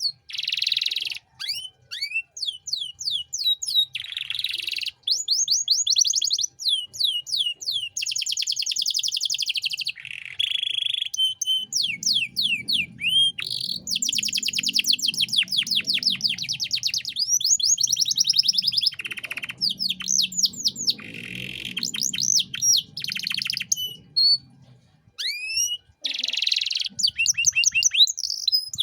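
Domestic canary singing a long, varied song: fast trills of rapidly repeated notes alternate with runs of quick downward-sweeping whistles, with brief pauses between phrases.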